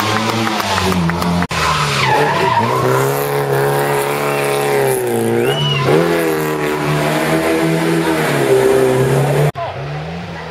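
Historic rally car engines running hard at speed, the pitch rising and falling with throttle and gear changes, with tyre squeal. The sound cuts off abruptly about one and a half seconds in and again near the end as one car gives way to the next.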